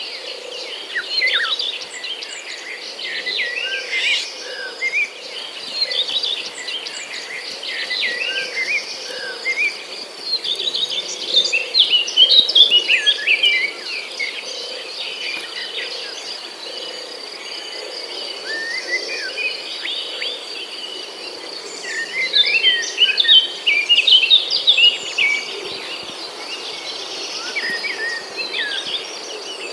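Several songbirds chirping and trilling in bursts, over a steady high insect drone.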